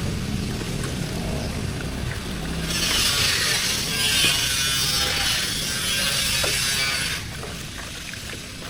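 Workshop machine noise: a steady, hissing power-tool sound for several seconds in the middle, over a low rumble, with scattered clicks.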